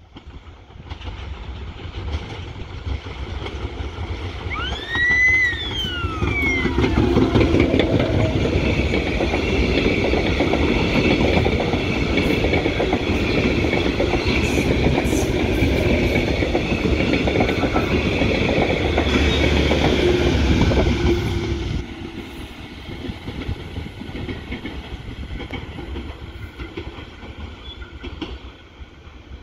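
A train passing close by, wheels clattering over the rails with a steady high whine, loud for about fifteen seconds before dropping off sharply to a lower rumble as it pulls away. A short tone rising and falling in pitch comes about five seconds in.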